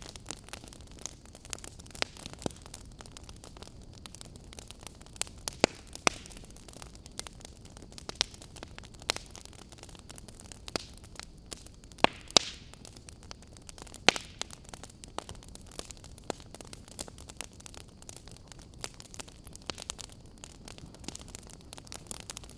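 Wood fire burning, with a steady low hiss and frequent sharp, irregular crackles and pops.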